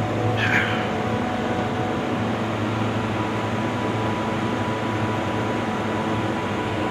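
Precision air conditioner running with a steady whir and low hum. A brief high squeak about half a second in.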